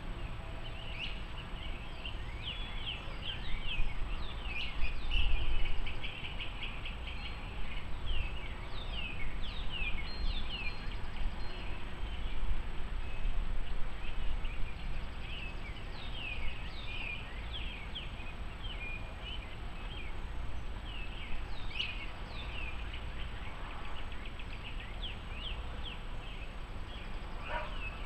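Wild birds chirping, in clusters of quick downward-sweeping notes, over a steady low rumble.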